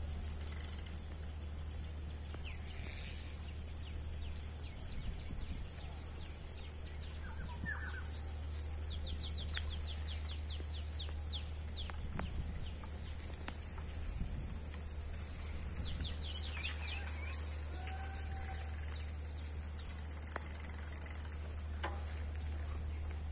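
Birds calling outdoors, with two quick runs of short high chirps and a few scattered calls, over a steady low rumble.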